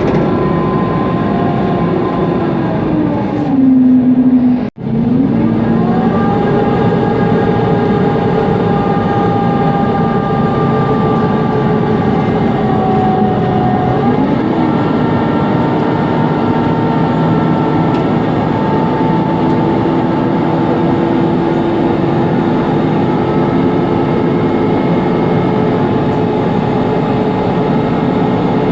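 Mercedes-Benz Conecto G NGT bus heard from inside the cabin, its OM 936 G CNG engine and noisy cooling fan whining. The whine falls in pitch as the bus slows, then cuts out for a moment. It rises again as the bus pulls away, steps up once more about halfway through as the ZF automatic gearbox shifts, and then runs steadily.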